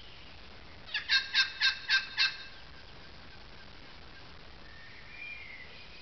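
A bird calling: a quick burst of six loud, evenly spaced notes, about four a second, about a second in. A fainter, shorter bird call follows near the end.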